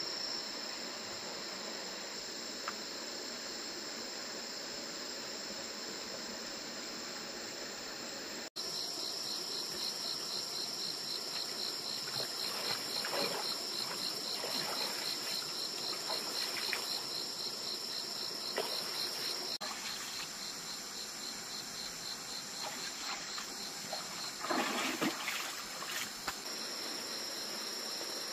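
Crickets and other night insects chirping steadily in a high, unbroken drone. There is an abrupt break about a third of the way in; after it the chirping becomes a fast pulsing trill, and scattered brief noises come and go, the loudest near the end.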